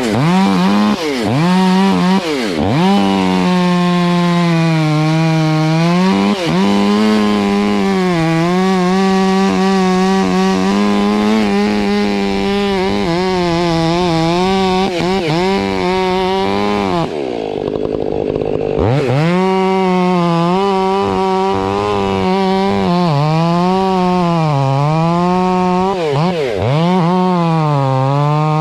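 Two-stroke chainsaw running at high throttle while cutting maple, its pitch sagging and recovering as the chain loads in the wood. The revs drop sharply and climb back a couple of times. The saw's note breaks off for about two seconds just past the middle, then picks up again.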